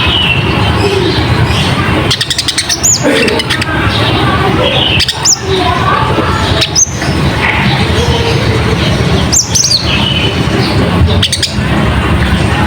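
Recorded song of a konin (kolibri ninja sunbird), played loud: fast continuous chattering twitters with a sharp, high, upward-sliding note breaking in every couple of seconds. This is a song mixed with imitated phrases of other birds, used as a lure call.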